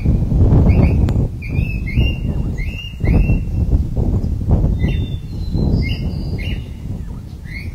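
A bird calling over and over with short rising chirps, roughly one or two a second, over a loud, uneven low rumble.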